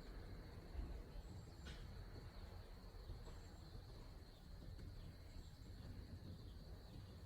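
Faint outdoor background with a steady high-pitched insect drone, a few brief high chirps and a low rumble; no machine is running.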